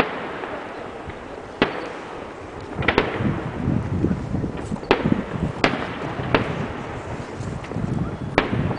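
Fireworks going off: about six sharp bangs at irregular intervals, with a low rumble and crackle between them.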